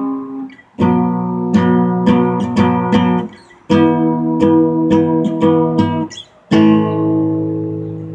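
Acoustic guitar strumming chords in three short phrases with brief breaks between them, the last chord left to ring and fade.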